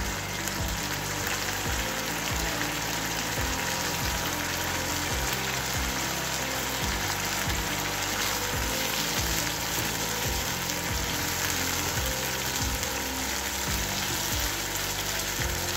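Diced potatoes sizzling steadily in oil and a little water in a frying pan over medium heat, with background music underneath.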